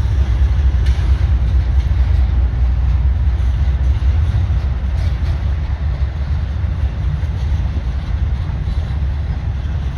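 A train passing, a steady low rumble of rolling railcars with a few faint clicks, easing off slightly toward the end.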